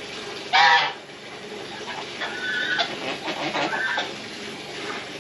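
Farmyard poultry calling: one loud, short call about half a second in, then several quieter calls over the next few seconds.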